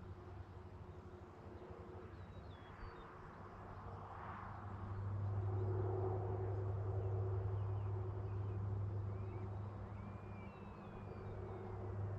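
Rural outdoor ambience: a low, steady engine-like drone that grows louder about five seconds in and holds, with a few faint bird chirps above it.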